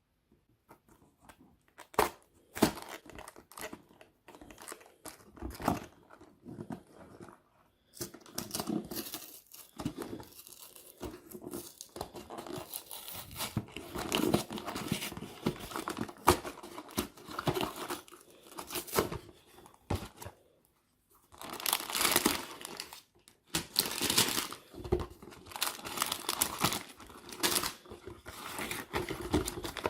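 Plastic bags of Lego pieces being torn open and crinkled, with irregular rustling and scattered sharp clicks.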